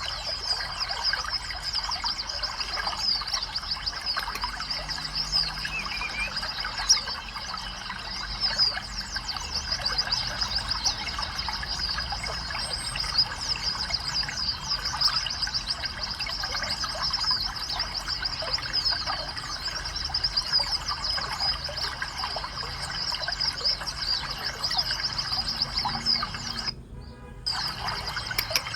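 Songbirds chirping and singing without pause, a dense stream of quick, high-pitched notes, with a brief break near the end.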